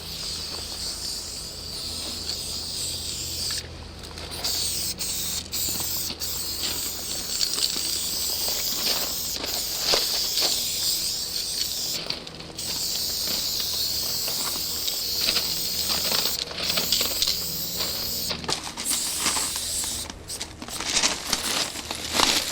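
Aerosol spray paint can spraying in long strokes, the hiss breaking off briefly between strokes, with a few clicks and a steady low hum underneath.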